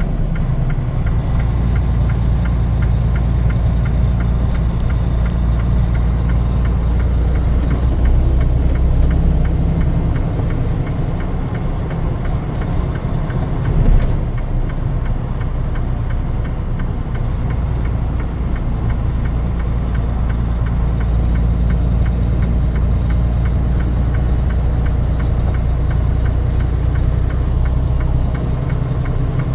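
A vehicle engine running steadily with a low, even drone, and one brief sharp knock about fourteen seconds in.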